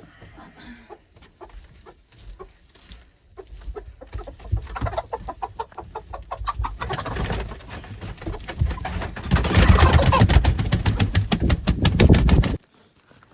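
A chicken flapping its wings hard in rapid, repeated beats that grow louder and stop abruptly near the end.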